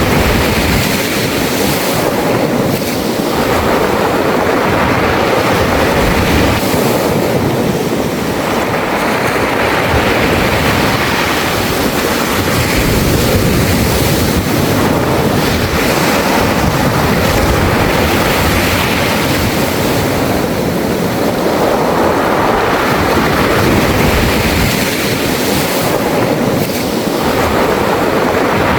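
Sea waves washing in and out over a beach of round pebbles, the stones rattling in the surf. The sound is a continuous wash that swells and eases every several seconds.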